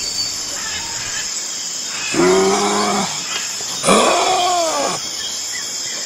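Two drawn-out animal calls, one about two seconds in and one about four seconds in. Each holds a steady pitch for under a second and drops away at its end, over a steady background hiss.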